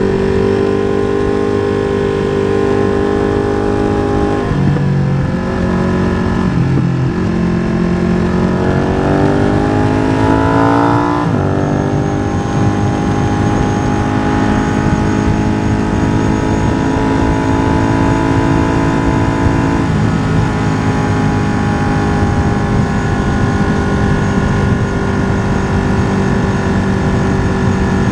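Ducati Streetfighter V2's 955 cc L-twin engine on a Deussen map, through a MIVV exhaust with the dB killer removed, heard onboard at full track speed. It changes pitch a few times in the first seven seconds, revs up steadily from about eight to eleven seconds, drops at an upshift, then holds a long steady high-rev run.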